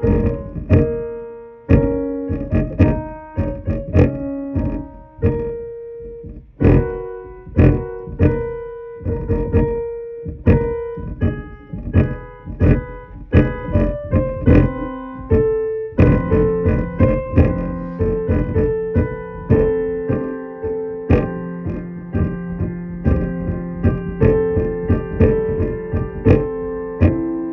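Electric keyboard played with a piano sound: a solo piece of single notes and chords, each struck and decaying, and the playing grows fuller, with a held low note, about halfway through.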